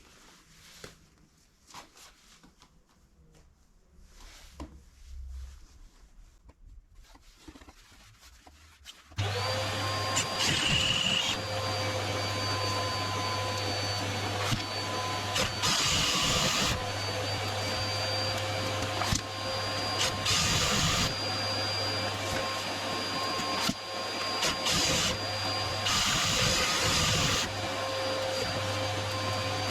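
A chimney sweep's vacuum switches on about nine seconds in and runs steadily with a high motor whine, with several short, louder rushes of noise on top. Before it starts there are only faint knocks and rustles.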